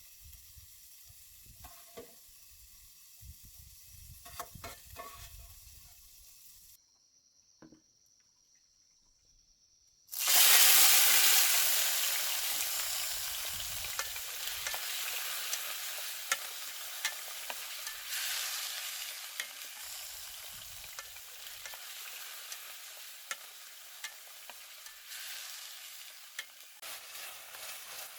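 Soft crackling from a pan with scattered clicks, then a few seconds of near silence. About ten seconds in comes a sudden loud sizzle, as of food going into hot oil, which slowly settles into steady frying with frequent sharp pops of spattering oil.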